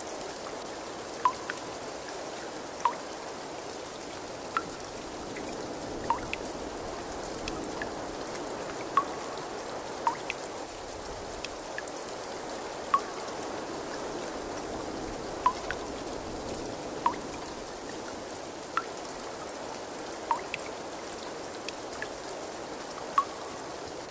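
Steady running water, with single water drops plinking into water every second or two, each a short bright plip.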